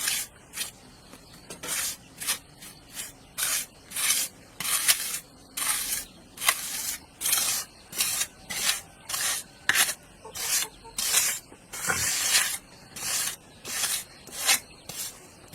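Rhythmic rubbing or scraping strokes by hand, a little over one a second, each a short hissy swipe.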